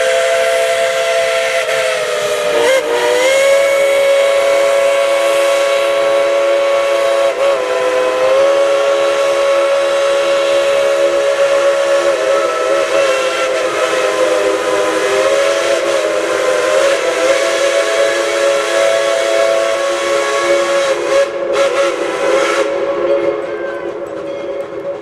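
Narrow-gauge steam locomotive whistle blowing one long, loud, multi-note blast. Its pitch wavers briefly a couple of times as the cord is worked, and it fades out near the end.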